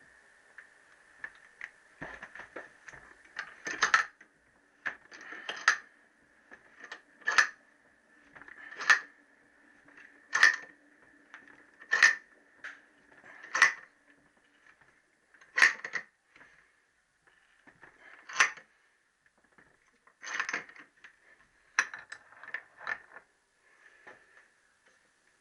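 Bench vise being wound closed to press a bronze small-end bush into a heated Triumph T120 connecting rod. Its steel handle gives a sharp metallic clink about every second and a half, around a dozen in all.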